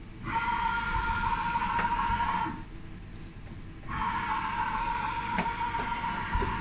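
Schaublin 110-CNC lathe running a program: a steady high whine sounds for about two seconds, stops for about a second and a half, then starts again about four seconds in, with a few light clicks underneath.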